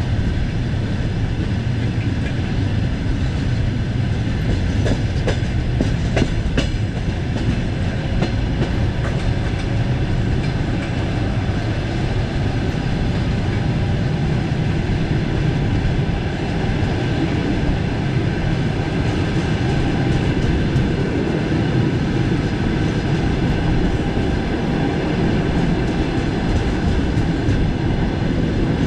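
Passenger train running at speed, heard from a carriage window: steady rolling of wheels on rail, with wheels clattering over rail joints and a few sharper clicks about five to seven seconds in.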